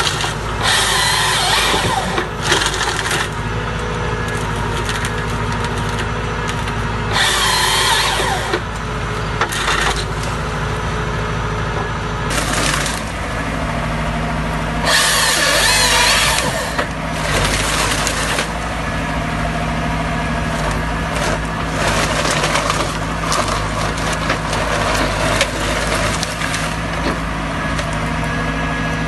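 Chainsaw running under load, cutting through wood, with several louder bursts of cutting noise lasting a second or two each.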